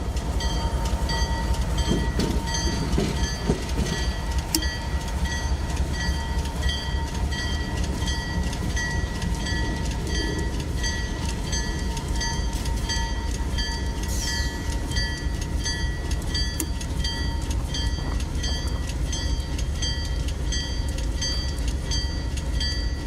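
Freight train rolling by with a steady low rumble and a regular repeating beat of wheels over the rail joints.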